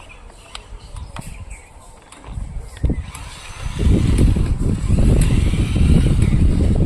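Radio-controlled monster truck driving over rough ground. A loud, rough rumble of wheels and ground contact comes in about four seconds in, with a faint electric motor whine.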